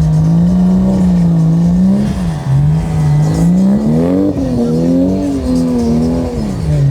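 Toyota Supra's twin-turbo straight-six held at high revs while drifting, the engine note wavering up and down with throttle. It dips briefly about two seconds in, climbs to its highest pitch a little after four seconds, and drops back near the end.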